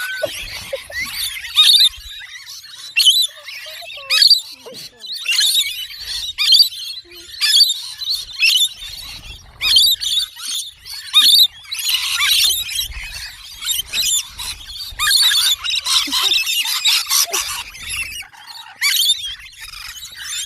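Pet birds calling: a steady run of short, high-pitched chirps and squeals, several at once, busiest in the second half.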